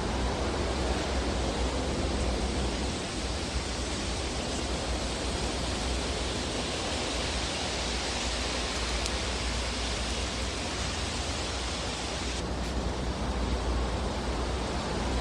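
Fire burning in a fireplace: a steady rushing hiss over a low rumble, with an occasional faint crackle.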